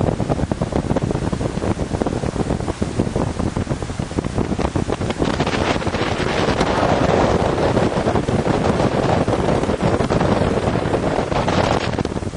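Wind buffeting the microphone aboard a motor yacht running at speed, over a steady rush of engine and water noise; the wind noise grows stronger about five seconds in and eases just before the end.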